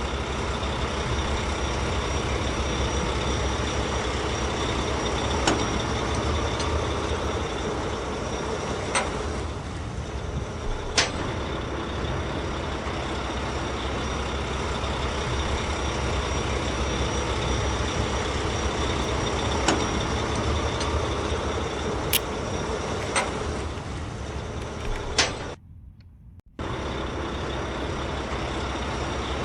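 A truck engine running steadily with a deep rumble, broken by a few sharp clicks. The sound drops out for about a second near the end, then resumes.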